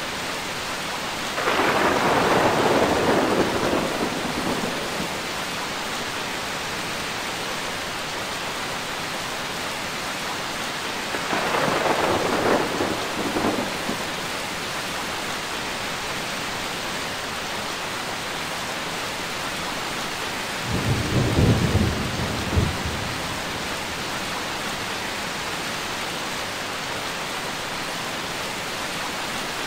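Steady heavy rain with three rolls of thunder, about ten seconds apart, the last one deeper and lower.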